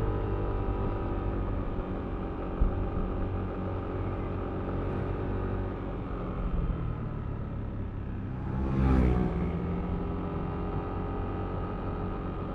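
Yamaha Aerox V3 scooter's 155 cc single-cylinder engine running steadily while riding, heard from the rider's position. About nine seconds in, another vehicle passes close by in a brief louder swell that rises then falls in pitch.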